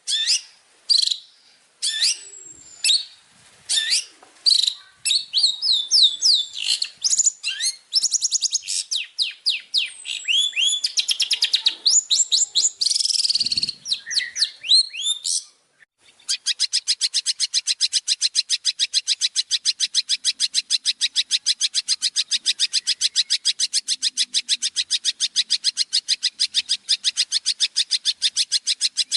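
Songbird song: a varied run of quick, high down-slurred whistles and chirps. After a short break about halfway through, it gives way to a fast, even trill of rapidly repeated high notes.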